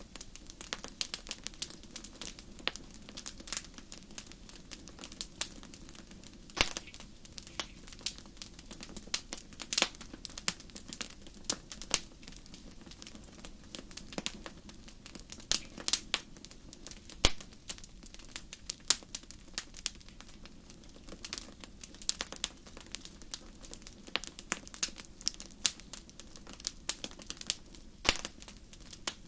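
Fireplace fire crackling, with irregular sharp pops and snaps several times a second over a faint, steady low rush.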